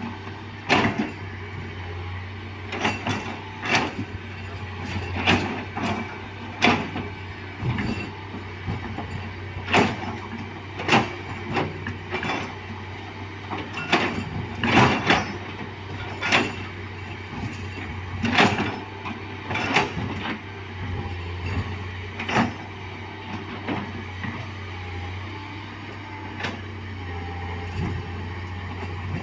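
Heavy earthmoving machinery at road works: a steady low engine drone with frequent, irregular sharp clanks and knocks of metal and rock.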